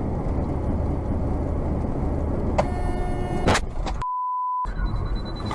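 Steady road and engine rumble from a moving car. A car horn sounds for about a second near the middle, followed by a short single-pitch bleep with all other sound cut out.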